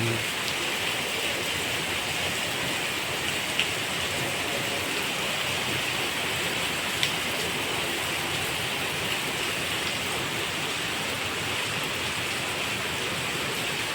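Steady rain falling and pattering on hard surfaces, with two sharp drip clicks in the first half.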